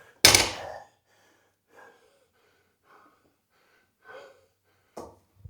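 A worn-out athlete's loud, sharp gasping breath just after the start, then faint breathing from exertion. A short click comes near the end.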